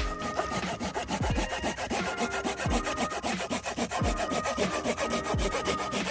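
A hand saw cutting through wood with rapid, even back-and-forth strokes, under background music with a deep beat about every second and a bit.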